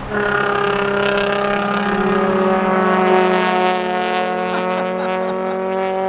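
Car engine held at high revs, a steady drone whose pitch creeps slightly upward.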